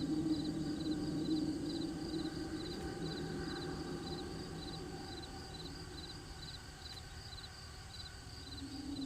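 Crickets chirping steadily, about two high chirps a second, each a quick triple pulse. Under them a low steady hum fades out around the middle and returns near the end.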